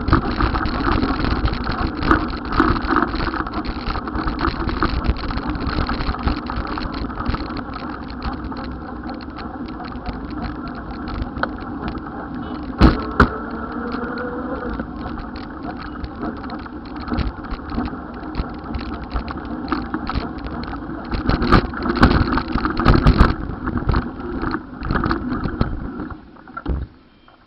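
Road vehicle noise, engines running steadily, with a sharp knock about 13 seconds in and a cluster of knocks around 22 seconds in.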